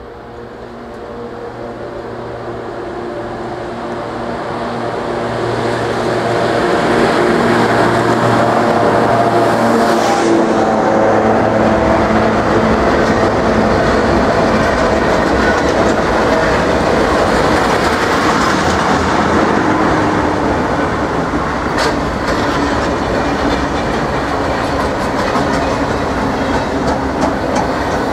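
British Rail Class 92 electric locomotive hauling a freight train, approaching with a steady electric hum that grows louder over the first several seconds. Then a long train of open box wagons passes close by with an even, loud rumble of wheels on the rails.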